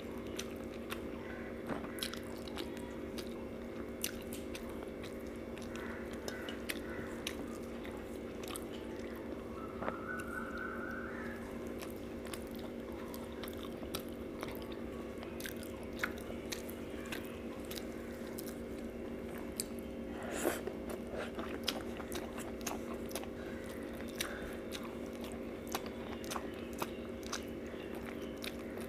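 Close-miked eating sounds: chewing and wet mouth clicks while eating rice and fish curry by hand, over a steady low hum.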